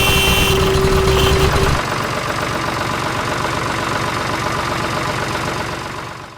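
Tractor engine running with a rapid low chugging, loud for about the first two seconds, then steadier and quieter before fading out near the end.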